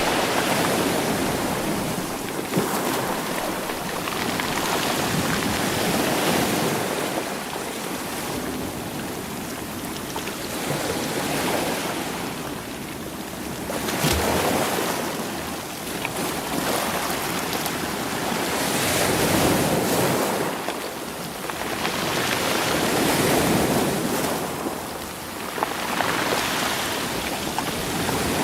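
Sea waves surging in and drawing back over rolling stones, rising and falling every five or six seconds, with an occasional sharp knock of stone on stone.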